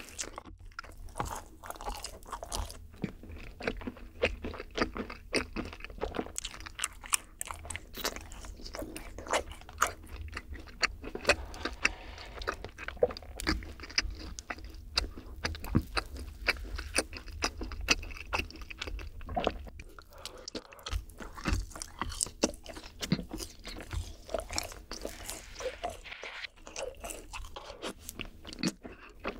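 Close-miked chewing and biting of yakgwa (Korean honey-fried cookies) with ice cream: many small, irregular crunches and mouth clicks.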